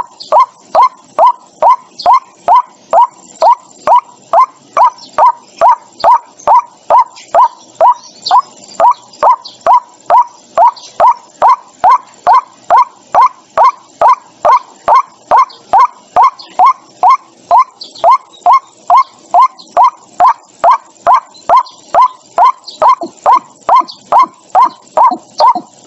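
White-breasted waterhen calling a steady, unbroken run of short harsh notes, about two a second, each dropping in pitch. It is a decoy call for luring waterhens to a trap speaker.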